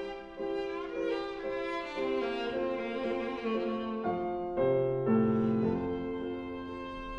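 Viola playing a bowed melody with vibrato, the notes changing every half second or so over a lower accompaniment.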